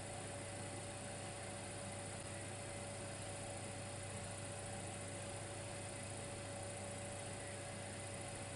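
Dimplex electric fireplace running: a steady electrical hum with a thin higher tone over an even hiss, unchanging throughout.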